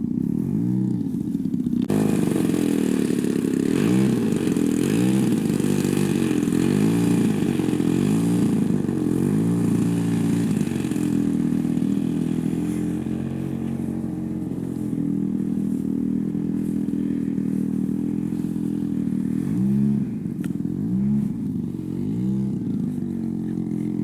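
Spark-ignition gas engine of a giant-scale RC warbird flying passes. Its note swings up and down in pitch with each fly-by, several times in the first half and twice more near the end. The pilots take the engine to be running lean at the low end.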